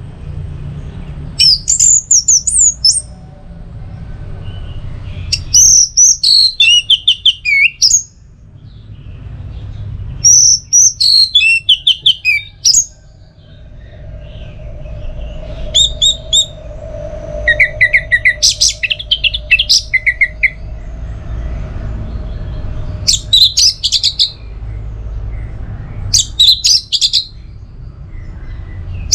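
Orange-headed thrush singing: short, quick, high-pitched song phrases repeated every few seconds, over a steady low rumble.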